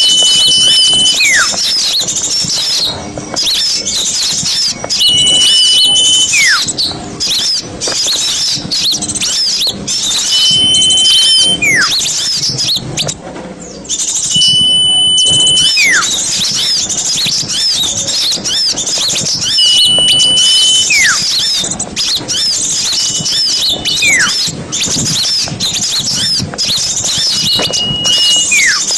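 A noisy flock of small forest birds chattering continuously in dense, high-pitched chirps. Every four to five seconds a clear whistle holds one note for about a second, then a second whistle slides down in pitch.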